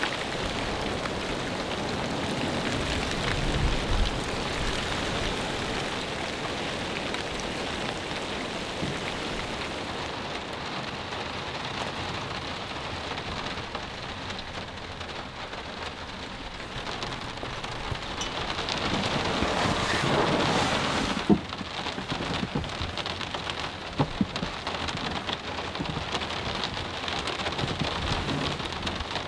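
Heavy rain pouring steadily, with a louder surge about two-thirds of the way through and a few sharp, heavy drops striking after it.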